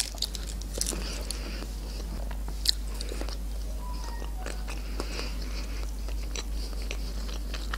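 Close-miked chewing and mouth sounds of a person eating imitation crab sticks, with many small wet clicks and one sharper tick about two and a half seconds in.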